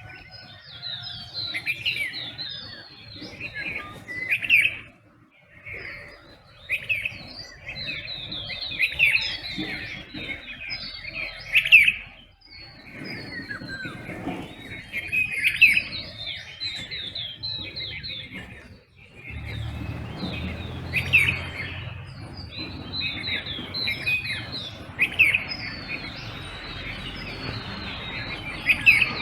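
A chorus of many small songbirds chirping and trilling rapidly, their calls overlapping. A faint low rumble joins about two-thirds of the way through.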